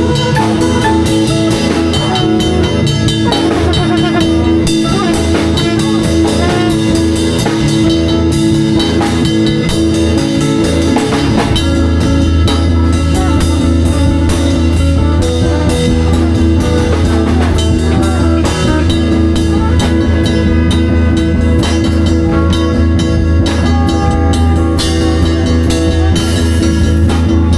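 A live band jamming: a drum kit keeping a dense beat under electric guitar, with a sustained bass note from about halfway through.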